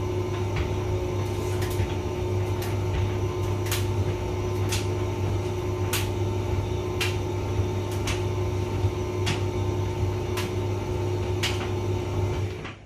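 Hotpoint vented tumble dryer running with a steady hum, with light knocks about once a second as the load tumbles in the drum. The sound cuts off suddenly near the end.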